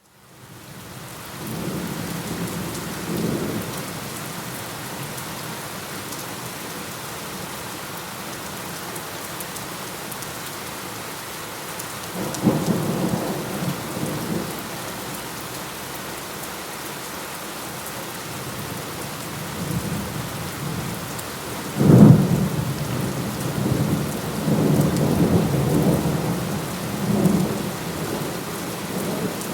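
Steady rain with rolling thunder: the rain fades in at the start, low rumbles come a few seconds in and again about twelve seconds in, then a sharp, loud thunderclap about two-thirds of the way through, followed by several seconds of rumbling.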